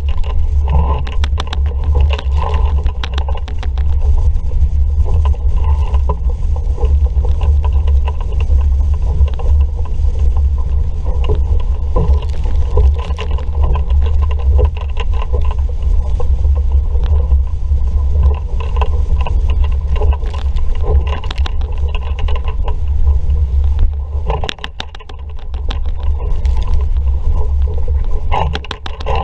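Strong wind buffeting the microphone aboard an RS Vareo sailing dinghy under way in a fresh breeze, a heavy low rumble, with frequent short knocks and clicks; the wind eases briefly a few seconds before the end.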